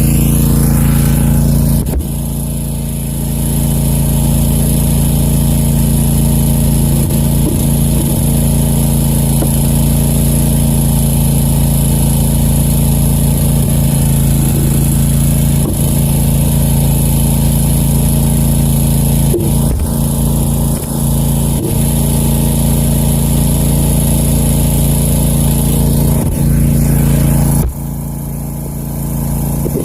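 Country Clipper zero-turn mower's engine running steadily under load, working the mower in mud. Its loudness dips briefly about two seconds in and again near the end.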